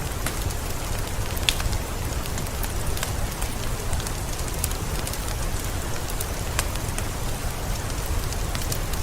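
Heavy rain falling steadily, with close drops striking as sharp taps scattered through it, one louder about a second and a half in, over a low rumble.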